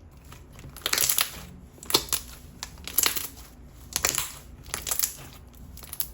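Water jelly slime squished and pressed in the hands, in short wet bursts about once a second.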